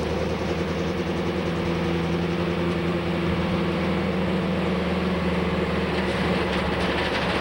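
Race vehicle's engine heard from an in-car camera, running steadily at low speed as it drives slowly back to the pits.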